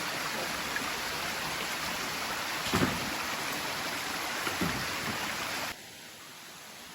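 Steady rushing water from the waterfall and stream, with two soft low knocks a couple of seconds apart midway; about six seconds in it cuts abruptly to a much quieter hiss.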